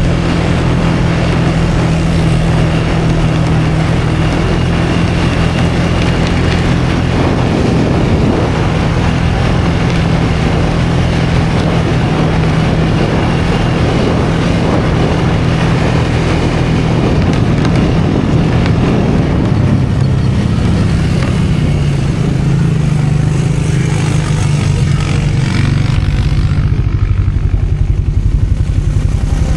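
An engine running steadily under load, with a low, even hum and rushing noise over it; the high hiss drops away about 26 seconds in.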